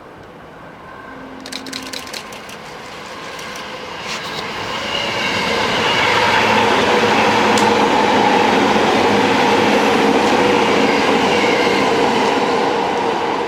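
Electric train coming into the station on the rails, its running noise building over about six seconds and then holding loud, with a steady tone running through it. A few light clicks come about a second and a half in.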